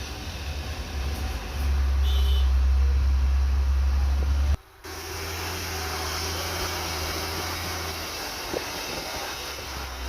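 Dump truck's diesel engine labouring with a heavy low rumble. It grows louder about a second and a half in, cuts off abruptly near the middle, then runs on steadily a little quieter.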